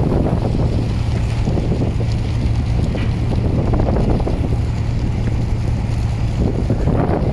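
Steady low drone of a boat's engine with wind buffeting the microphone.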